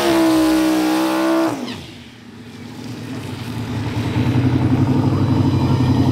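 Turbocharged LS V8 of a 1984 Chevrolet Monte Carlo SS held at high revs during a burnout, then the revs drop off suddenly about a second and a half in. After a short lull, a lower, choppy engine rumble builds and holds steady.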